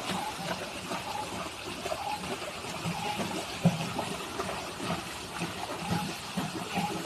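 Water splashing and trickling, a steady wash of small irregular splashes.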